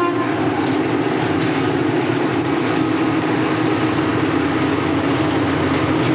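Diesel-hauled freight train rolling past with a steady rumble of cars on the rails.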